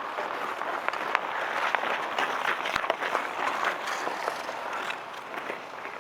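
Outdoor ice hockey play: a steady scraping hiss of skates on ice, broken by many sharp clacks of sticks and puck.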